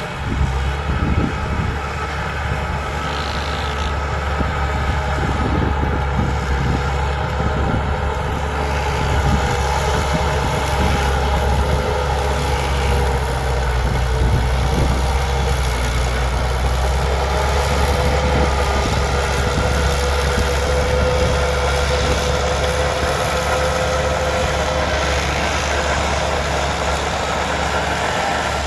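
Bulldozer's diesel engine running steadily: a strong low rumble with a steady whine above it.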